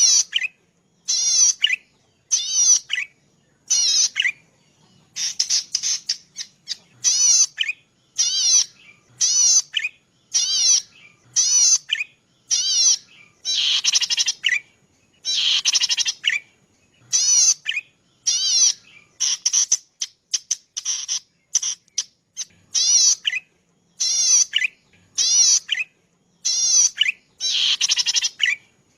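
Zitting cisticola (cici padi) singing: short, fast warbling phrases of high notes, repeated about once a second with brief pauses between them.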